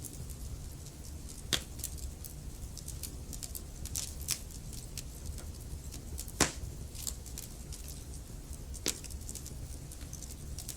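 Burning logs in a fireplace crackling: a steady low rumble of flames with scattered pops, the loudest about a third of the way in, another two thirds in, and a sharp one near the end.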